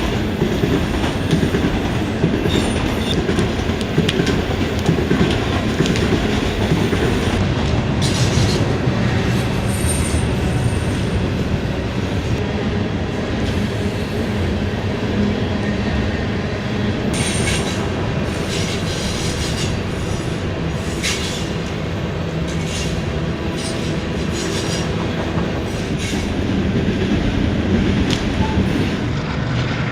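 A train passing close by on the tracks: a steady rumble of wheels on rail with repeated clacking, and brief high wheel squeals about ten seconds in and again a few seconds later.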